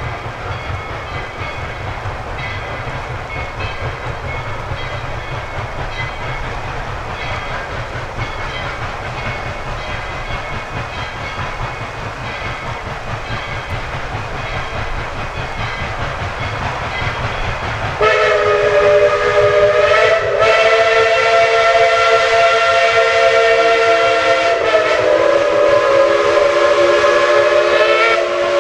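Narrow-gauge steam train running with a steady low rumble, then about two-thirds of the way in the locomotive's chime whistle blows loud, a chord of several notes held for about ten seconds, its lower notes shifting in pitch near the end.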